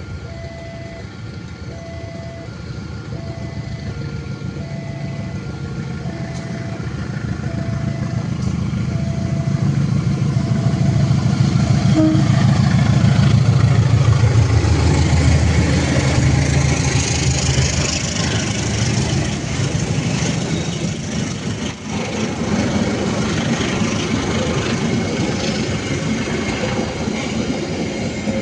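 Level-crossing warning bell ringing about once a second as a diesel locomotive approaches, its engine growing louder to a peak about halfway through. Then the loud rumble and wheel noise of the train's carriages rolling past.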